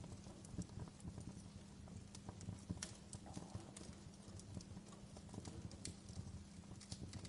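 Burning logs in a fireplace crackling, with irregular sharp snaps and pops over a low steady rumble.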